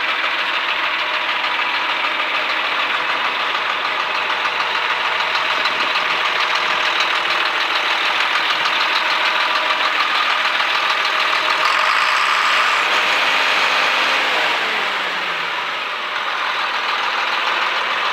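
1983 John Deere 4650 tractor's six-cylinder turbo diesel engine running steadily, with a falling whine a few seconds before the end as the engine note drops briefly, then steadies again.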